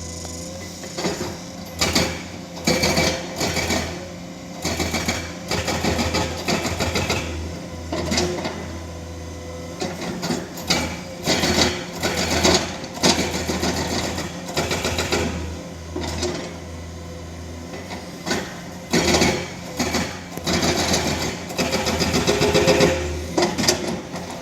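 Excavator working rock: its engine runs with a steady low hum under repeated bursts of rapid clattering, each lasting about a second.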